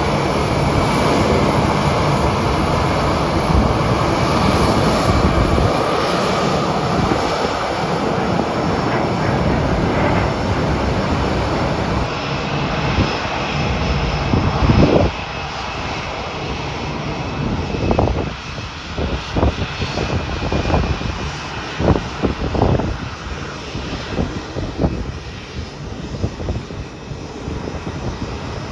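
Airliner engines running loud and steady as an airplane passes on the runway. The noise drops off sharply about halfway through, giving way to an uneven, gusty rumble.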